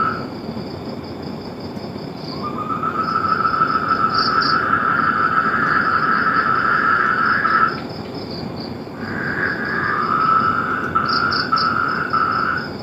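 A chorus of trilling animal calls: long pulsed trills lasting several seconds start and stop, one from about two seconds in to nearly eight seconds, then more from about nine seconds. A higher, steady pulsing trill runs beneath them over an even rushing noise.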